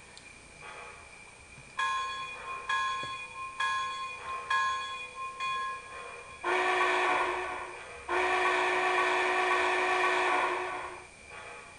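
MTH HO-scale Big Boy model's sound system ringing its locomotive bell, about five strikes roughly a second apart. It then sounds two steam whistle blasts, a shorter one and then a longer one, through the model's small speaker. A faint steady buzz from the speaker runs underneath.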